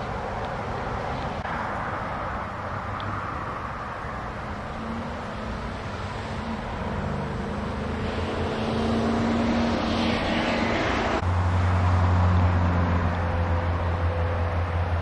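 Outdoor vehicle engine noise. About eleven seconds in, a loud low steady engine hum starts suddenly.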